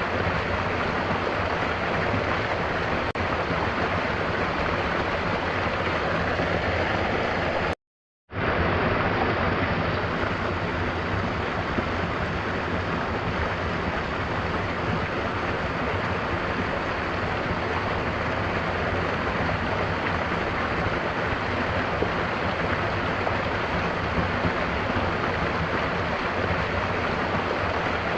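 Mountain waterfall: water pouring and splashing in a steady, unbroken rush, interrupted by a brief moment of total silence about eight seconds in.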